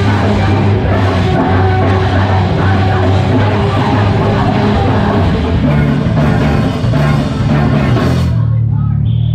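Live heavy rock band playing loud, with drum kit and distorted guitars. Near the end the drums and guitars stop suddenly, leaving a low bass note ringing on.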